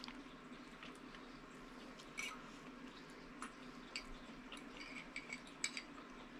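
Mouth sounds of someone chewing food: soft, scattered wet smacks and clicks, with a quick cluster of them late on.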